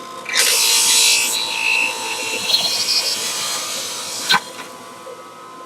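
Acme centrifugal juicer's motor whining as produce is pushed down the chute, loud grinding and shredding against the spinning basket for the first few seconds. A sharp knock comes at about four seconds, then the machine spins on more quietly with a steady whine.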